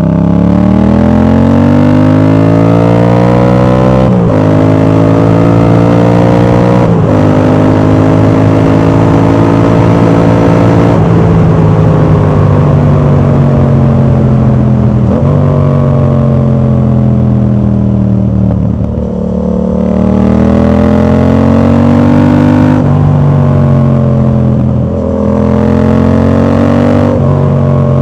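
Yamaha MT-07 parallel-twin engine through an exhaust with its dB killer fitted, accelerating and shifting up through the gears: the pitch climbs in each gear and drops sharply at each shift, every three to four seconds. A little past the middle the engine eases off and falls in pitch, then pulls and climbs again.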